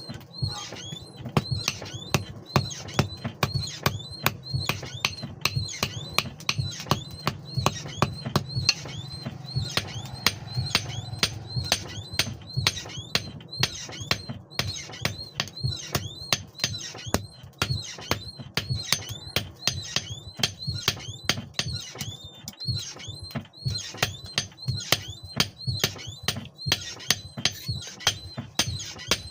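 Rapid hammer strikes on metal, about two to three blows a second, each with a short metallic ring, over a low steady hum.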